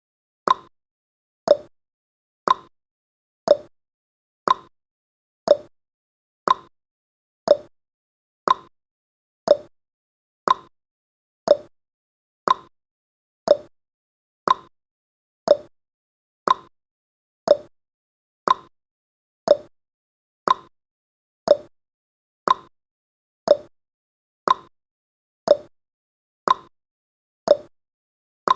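Clock-style tick-tock sound effect of a countdown timer, ticking steadily about once a second, with the ticks alternating between a higher and a lower pitch.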